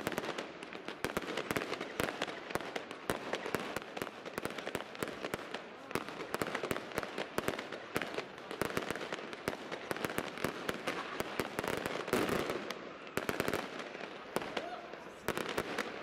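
Fireworks and firecrackers going off all around in a dense, unbroken stream of cracks and bangs, many per second.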